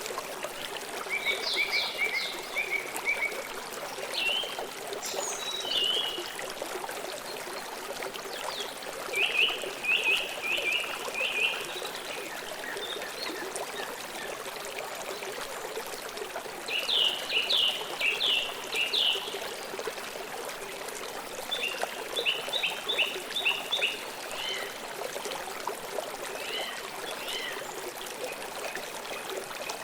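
River water flowing steadily, with a songbird singing over it in about five short phrases of quick repeated chirping notes, a few seconds apart.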